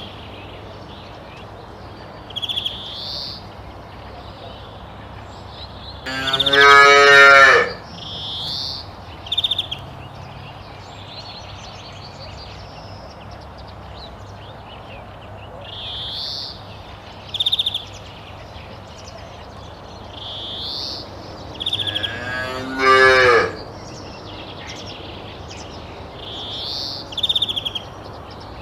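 A cow mooing twice, two long calls about fifteen seconds apart, with short high chirping calls repeating every few seconds in between.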